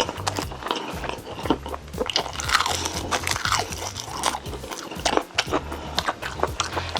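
Close-up eating sounds of Korean braised chicken (jjimdak) being bitten and chewed: a dense, irregular run of mouth clicks and smacks.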